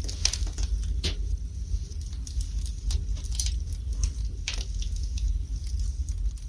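Wood fire burning in a fireplace, crackling with irregular sharp pops, the loudest near the start and about a second in, over a low steady rumble.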